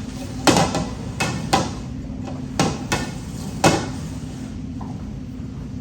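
About seven sharp knocks and clacks in the first four seconds, mostly in quick pairs, as the food containers are shuffled around on a tabletop.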